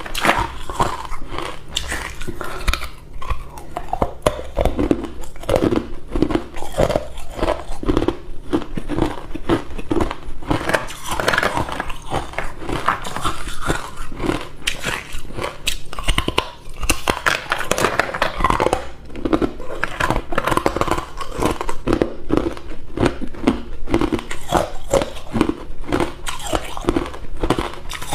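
A person biting and chewing hard ice cubes, a steady run of crunches.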